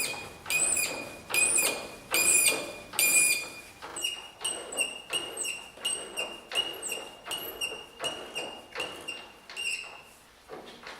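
Rhythmic strokes of a hand tool scraping on metal, each with a short ringing tone. The strokes are slower for the first few seconds, then speed up to about three a second and stop shortly before the end.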